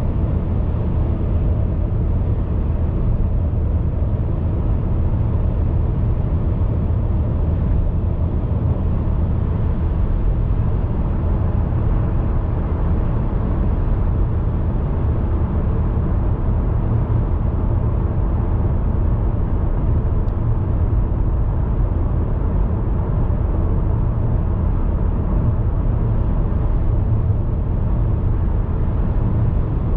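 Steady low rumble of a car driving at an even speed, tyre and road noise with no changes in pitch or level.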